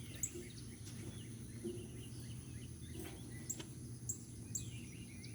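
Outdoor summer ambience: a steady high-pitched drone of insects with scattered short bird chirps and a few faint clicks.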